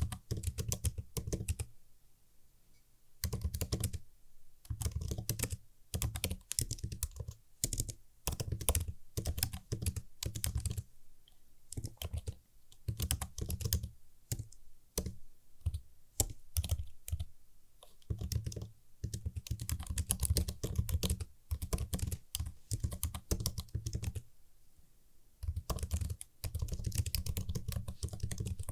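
Typing on a computer keyboard: quick runs of crisp key clicks with a soft low thud under each, in bursts of a few seconds broken by short pauses.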